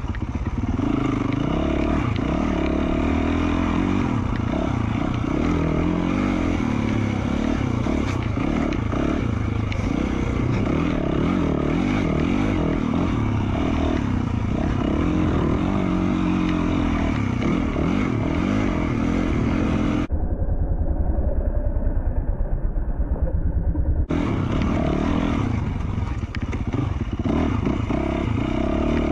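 2020 Yamaha YZ450F's single-cylinder four-stroke engine through an FMF Q4 slip-on exhaust, revving up and down as the dirt bike is ridden. For about four seconds, two-thirds of the way through, the sound turns dull and muffled.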